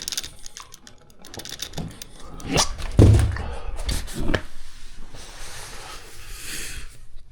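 A few knocks and a dull thump about three seconds in, the loudest sound, with rustling between them.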